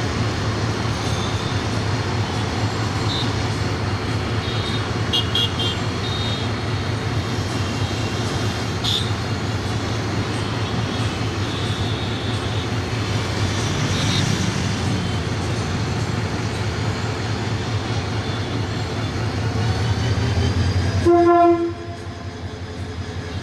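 Diesel commuter train running with a steady low rumble. Near the end a short, loud horn toot sounds once, and after it the rumble falls away.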